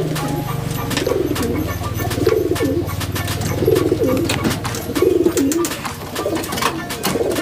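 Domestic pigeons cooing, a run of throaty rolling coos about one a second, with scattered faint clicks.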